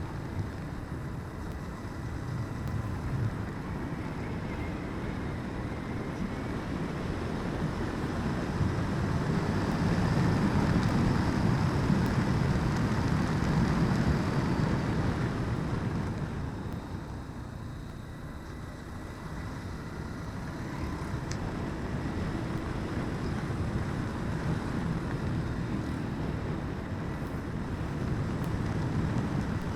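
Motorcycle riding along a road, its engine and wind noise making a steady rumble that swells about a third of the way in and eases off a little past the middle.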